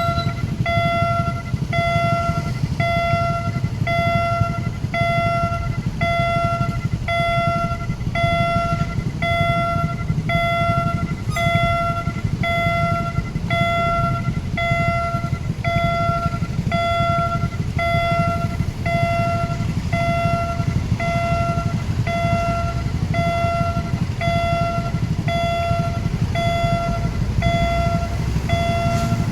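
Railway level-crossing warning alarm sounding a repeated electronic tone, a little over one beep a second, over a steady low rumble.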